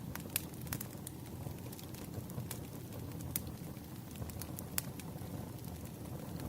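Wood fire crackling: irregular sharp pops and snaps, a few a second, over a steady low rumble of the burning logs.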